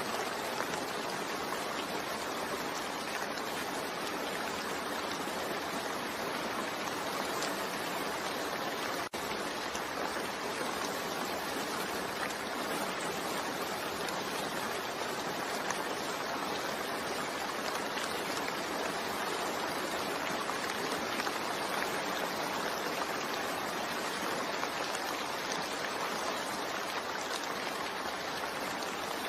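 Steady rain falling, an even hiss of drops with no let-up, broken only by a momentary dropout about nine seconds in.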